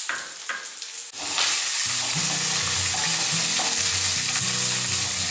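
Black peppercorns, green chillies and garlic sizzling in hot oil in a steel wok, with a spatula stirring and scraping the spices against the metal. The sizzle is softer for about the first second, then grows louder once the stirring starts.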